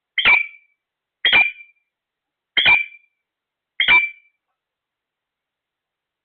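A parrot calling four times: loud, short, shrill calls about a second and a quarter apart.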